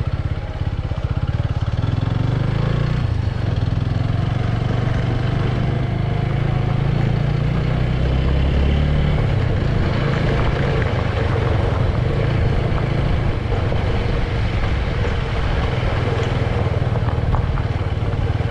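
Motorcycle engine running steadily while under way, its low note shifting slightly as the rider works the throttle.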